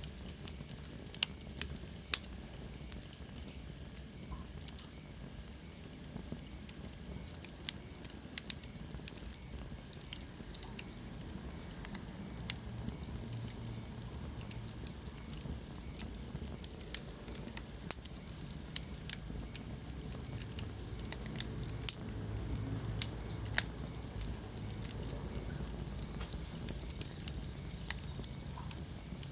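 Wood fire burning in a fireplace: irregular sharp crackles and pops over a low, steady rumble of flames. About a second in, a thin high whistle slides down in pitch over a few seconds.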